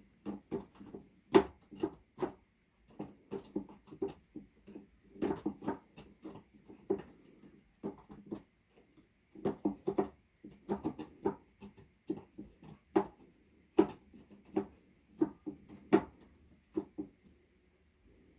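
Cat clawing an L-shaped vertical scratcher: quick runs of short scratching strokes with brief pauses between the runs.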